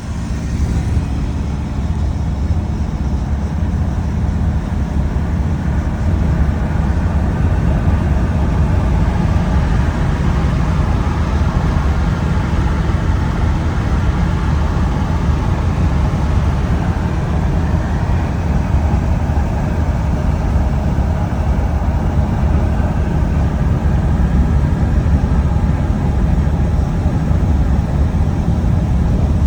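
Steady vehicle rumble: engine and road noise from moving vehicles, with a heavy low drone that holds level throughout.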